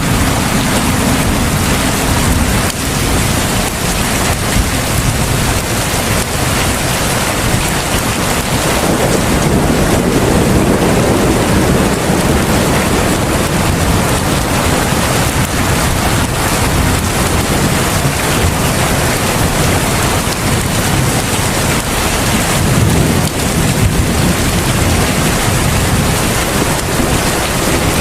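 Steady heavy rain, a dense even hiss, with a low thunder rumble that swells and fades a few times.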